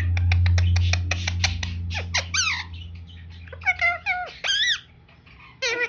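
Indian ringneck parakeet chattering: a quick run of clicks, then several squawky calls that slide up and down in pitch. A low hum runs under the first couple of seconds.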